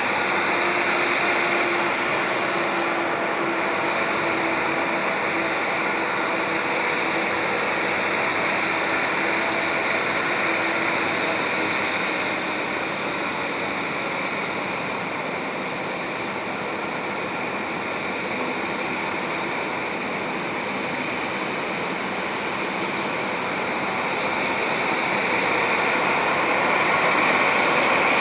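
Steady jet aircraft noise, an even rushing hiss, with a faint hum that fades out about halfway through.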